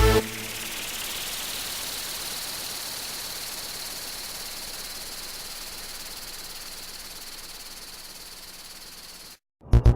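Steady hiss with a thin, high, even whine, slowly fading. It cuts off near the end, and music with a throbbing beat starts.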